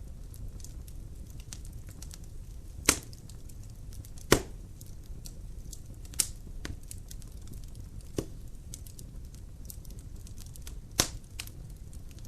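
Wood fire in a fireplace crackling: a low steady burning rumble with many small pops and five louder sharp cracks from the logs, at irregular intervals.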